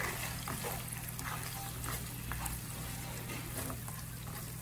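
Shrimp, garlic and chili cooking in olive oil in a frying pan: a steady sizzle with scattered small pops and crackles, over a low steady hum.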